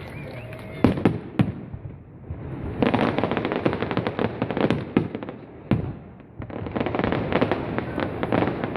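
Fireworks display: two sharp bangs about a second in, then two long stretches of dense, rapid crackling from crackling shells, with single loud bangs between and after them.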